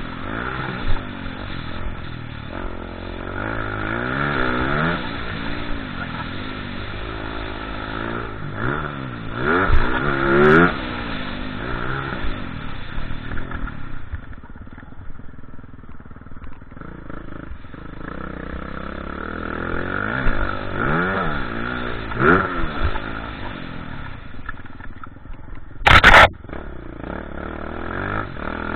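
Motocross bike engines revving up and dropping back again and again as they ride the track. Near the end there is a short, very loud blast of noise.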